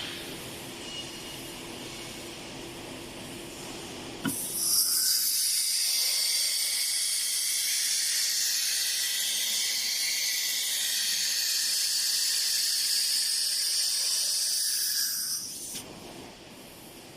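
Compressed air hissing through the CNC router's automatic-tool-changer spindle during a tool change. It starts with a click about four seconds in, holds steady and loud for about eleven seconds, then cuts off.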